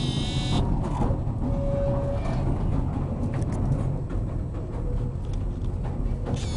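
Pier train running, heard from on board: a steady low rumble of the train on its rails. A brief high-pitched metallic squeal cuts off about half a second in.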